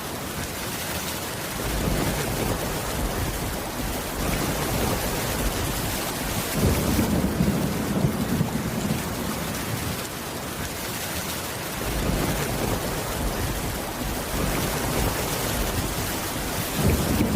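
Steady heavy rain with low rolls of thunder swelling up about every five seconds.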